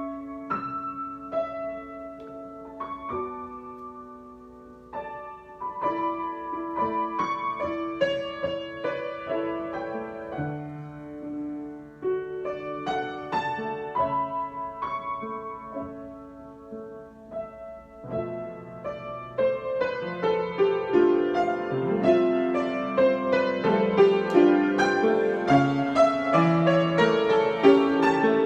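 Solo piano improvisation: slow, sparse notes and chords at first, then from about two-thirds of the way through the playing grows louder and fuller, with many more notes.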